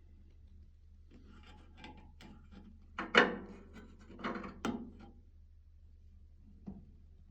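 Scraping and rubbing with a few sharp knocks, the loudest about three seconds in and another pair over a second later, and a single light knock near the end.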